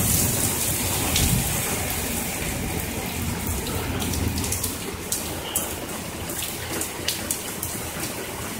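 Heavy summer rain falling steadily, with sharp spatters of drops landing close by. A low thunder rumble sits under the rain and fades within the first second or two.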